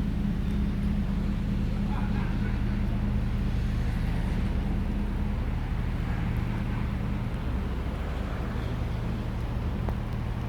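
Vehicle engine running with a steady low hum, under a faint hiss.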